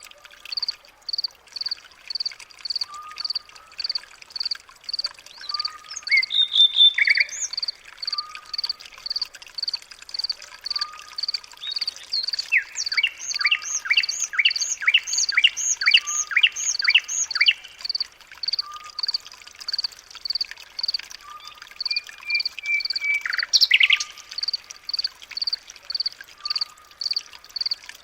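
Birds calling and singing over a steady high-pitched chirp that repeats about twice a second. In the middle one bird gives a run of about a dozen quick repeated notes.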